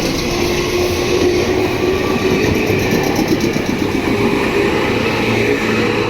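A train passing close by over a level crossing, a steady loud rush of wheels on rail that fades near the end.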